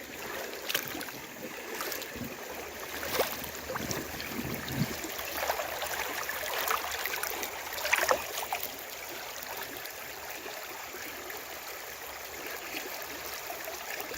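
Shallow creek water running over a rocky bed, with a few short sharp knocks, the loudest about three and eight seconds in.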